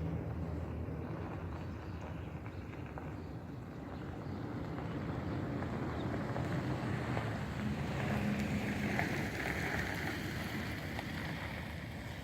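Engine of a radio-control model Fleet biplane droning steadily in flight. It grows louder, with its pitch rising, about eight seconds in, then eases off again near the end, as in a pass overhead.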